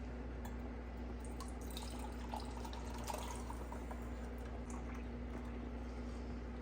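Scattered faint clicks and taps, some with a wet, dripping quality, over a steady low hum.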